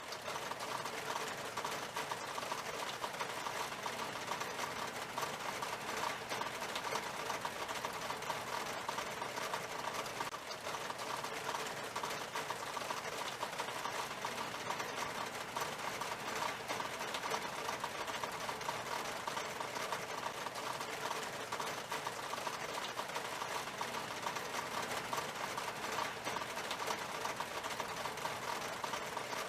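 Rain falling steadily on a glass window pane: a dense, even spread of tiny drop ticks.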